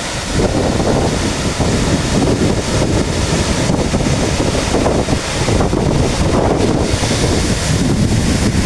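Wind and waterfall spray buffeting the microphone, over the steady rush of a large waterfall plunging close by.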